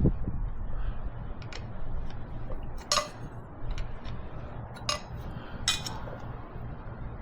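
Wrenches and metal tools clinking on the fuel injector line fittings of a Kubota V2203 diesel engine: three sharp metal clinks in the second half, with a few fainter taps, over a steady low hum.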